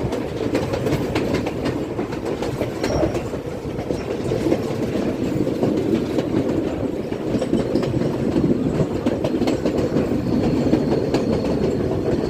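Train running on the rails: a steady low rumble with wheel clatter from the track joints, and a faint thin high whine joining near the end.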